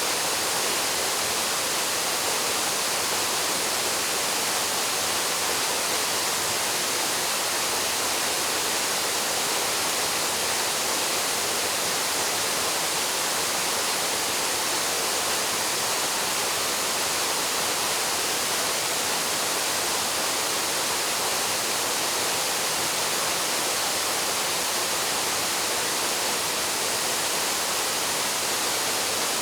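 Waterfall plunging into a pool: a steady, unbroken rush of falling water, strongest in the high hiss.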